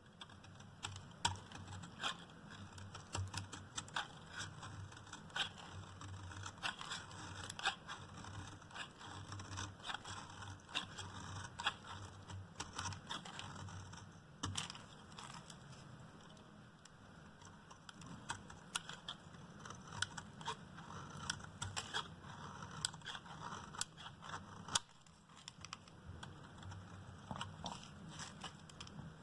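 A knife cutting into a hard, dried bar of Duru soap, making irregular crisp crunches and cracks over a steady scraping of the blade, with a brief lull about three quarters of the way through.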